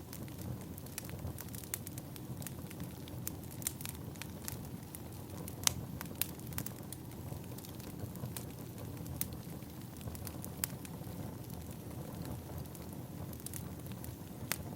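Firewood burning: a steady low rumble of flames with frequent sharp crackles and pops, one pop standing out louder a little before six seconds in.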